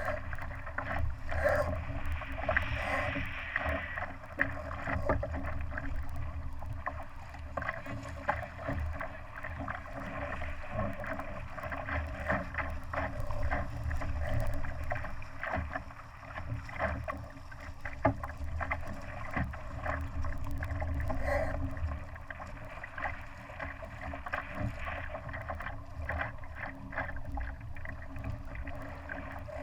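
Water splashing and slapping around a Laser sailing dinghy under way: a steady low rumble with many small crackles and splashes, rising and falling in loudness.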